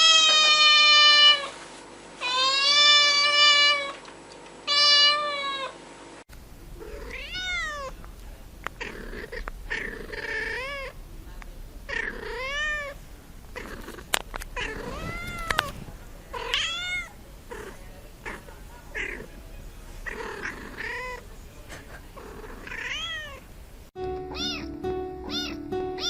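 Cats meowing: three long, loud meows in the first few seconds, then many short meows that rise and fall in pitch, and near the end more meows over background music.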